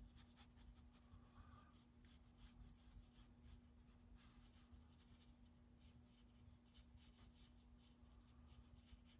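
Near silence: faint, scattered scratchy strokes of a watercolour brush working wet paint on paper, over a low steady hum.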